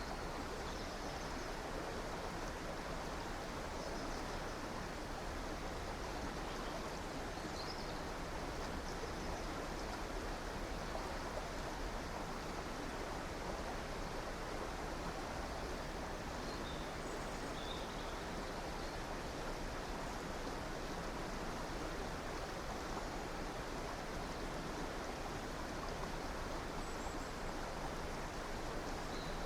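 River water flowing steadily, with a few faint, brief bird chirps scattered over it.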